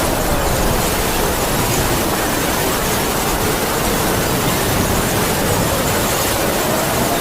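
Heavy rain falling steadily under howling wind, the wind's faint moaning tone rising and falling slowly.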